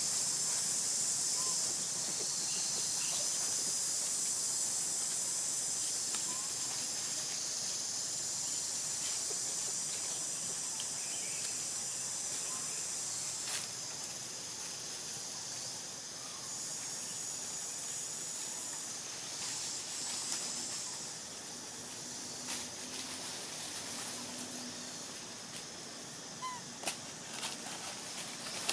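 Steady high-pitched insect drone, fading somewhat in the second half, with a few faint clicks.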